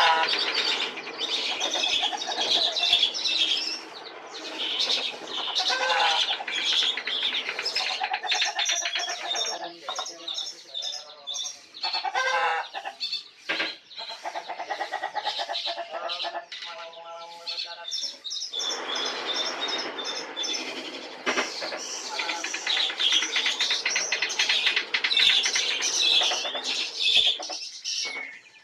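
Songbirds singing fast, busy strings of chirps and trills. The song thins out with short pauses in the middle, then becomes dense again.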